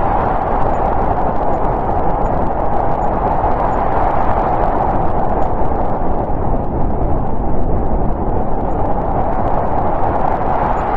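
Snowstorm wind blowing steadily, a continuous rush that eases a little mid-way and builds again near the end.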